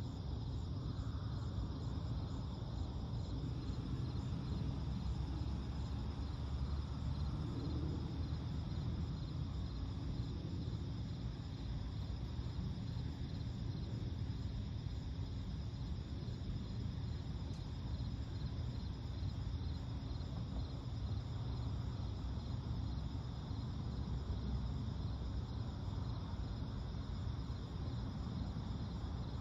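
Night insects chirping in a steady, evenly pulsing chorus over a low, constant rumble of background noise.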